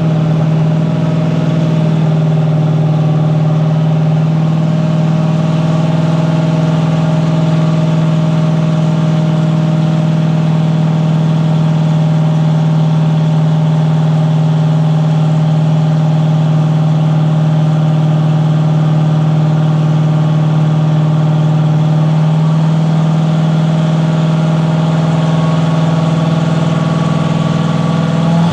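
Turbocharged Gen V LT V8 in a Silverado race truck idling steadily on a chassis dyno; right at the end the engine starts to rev and its pitch climbs.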